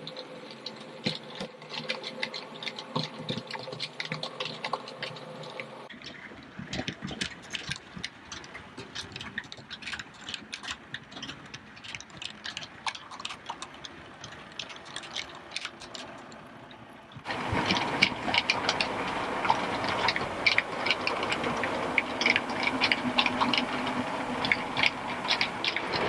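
OO gauge model trains running on track: a steady motor hum with rapid small clicks and rattles of wheels over rail joints. The sound changes suddenly about 6 seconds in and again about 17 seconds in, and is louder in the last part.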